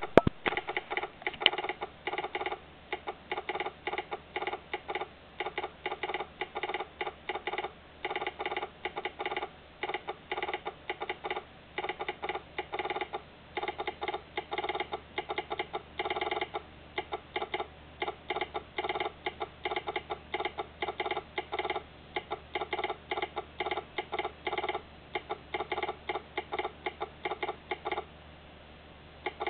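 Railway telegraph sounder clicking out Morse code in quick, irregular groups of clicks with short gaps between them, pausing briefly near the end.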